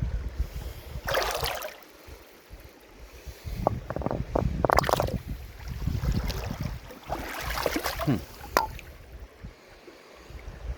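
Wind buffeting the microphone with a low rumble, alongside river water rushing and splashing in three swells. There are a few sharp knocks, around the middle and again near the end.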